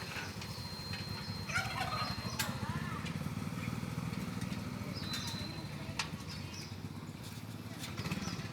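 An engine idling steadily, a low even rumble, with faint distant voices and a single click about six seconds in.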